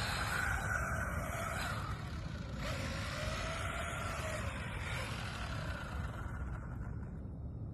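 Brushless electric motor of a 1/14-scale RC drift car whining, its pitch rising and falling several times as it speeds up and slows down, over a steady low rumble.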